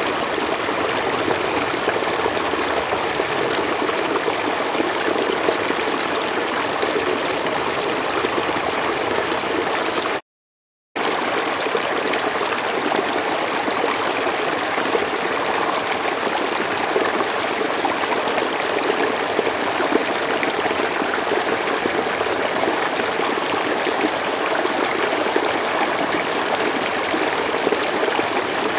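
River water flowing in a steady, even rush. The sound cuts out completely for under a second about ten seconds in, then resumes unchanged.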